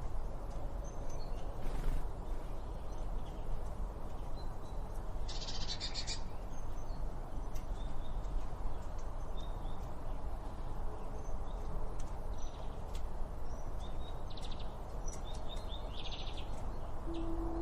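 Several small songbirds chirping and trilling in short, scattered calls, with a louder rapid trill about a third of the way in and a cluster of trills near the end, over a steady low background rumble.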